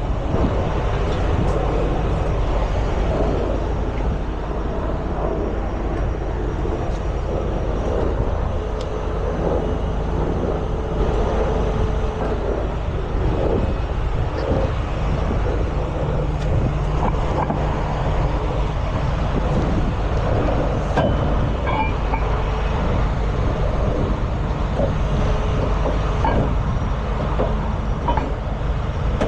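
Heavy diesel truck engine running steadily, with a few light clanks over it.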